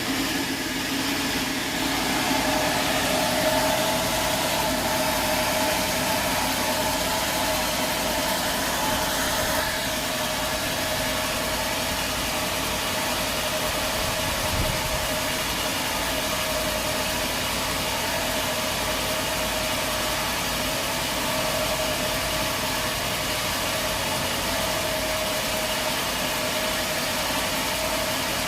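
Sawmill machinery running steadily: a continuous mechanical hum with a steady mid-pitched whine.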